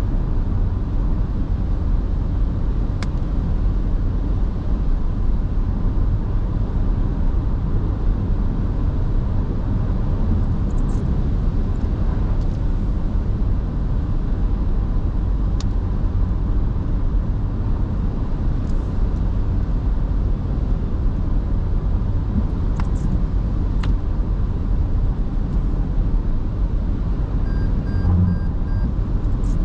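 Car driving on a paved highway: a steady low rumble of tyres and engine, with a few faint ticks now and then.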